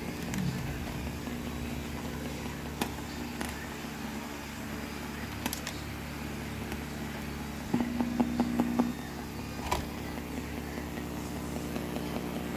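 X33 Bluetooth speaker giving out a steady low hum with no programme playing, the sound fault it has. Scattered clicks cut through it, and about eight seconds in comes a quick run of about six clicks with a brief tone.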